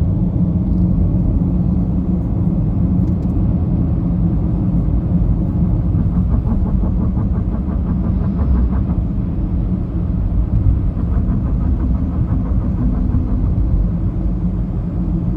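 Steady low rumble of a vehicle on the move: engine hum and road noise.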